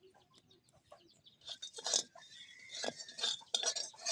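Metal cooking utensils clinking and clattering against a pot or pan. The clatter gets louder about a second and a half in, and a thin call-like tone, likely a bird, is heard in the middle.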